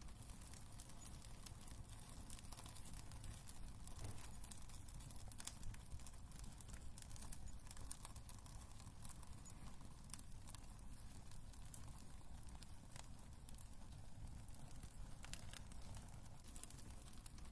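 Wood fire burning in a fireplace, crackling with frequent small irregular pops over a low steady rumble.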